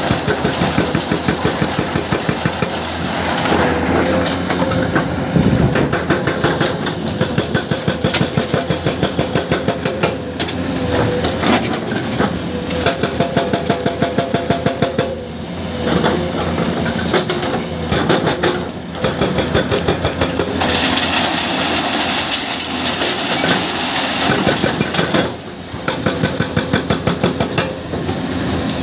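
Excavator-mounted hydraulic breaker hammering rock in runs of rapid blows lasting a few seconds each, with short pauses between runs, over the excavator's diesel engine running.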